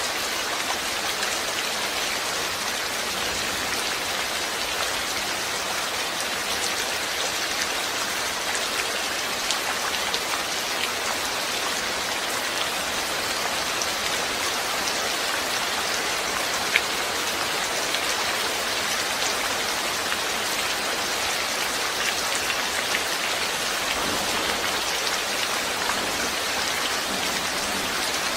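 Steady rainfall, a constant hiss of rain with scattered individual drops ticking on a surface, and one sharper drop hit about halfway through.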